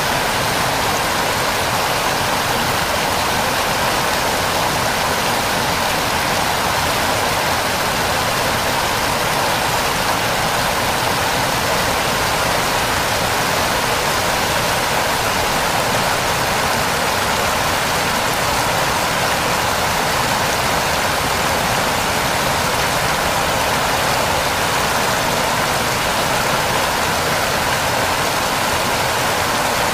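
Waterfall pouring steadily: an even rush of falling water with no breaks or changes.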